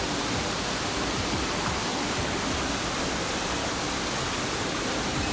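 Shiwagara waterfall inside its cave: a steady, unbroken rush of falling water.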